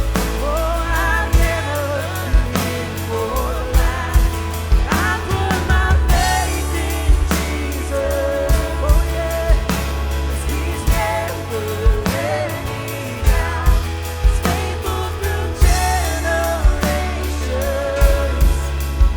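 Live worship band playing: drum kit keeping a steady beat over a deep sustained bass, with keys and a wavering lead melody line on top.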